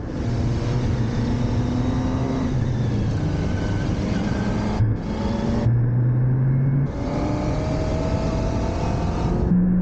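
Motorcycle engine running under way, with its note jumping up and down in pitch several times. A rushing hiss comes and goes over it.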